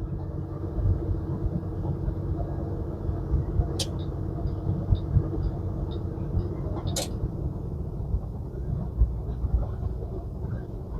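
Semi truck's diesel engine and road noise heard from inside the cab while driving, a steady low rumble with a hum. Two sharp clicks sound, about four and seven seconds in, with faint ticking about twice a second between them.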